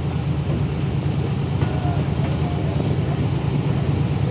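Passenger train rolling along the track: a steady low rumble of the wheels and running gear, heard from an open coach door.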